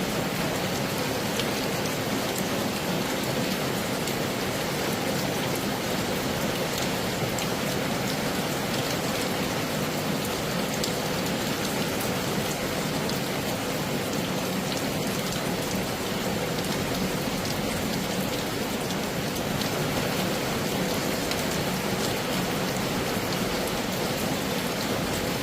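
Heavy rain falling steadily, an even rushing hiss with scattered drop ticks and no change in strength.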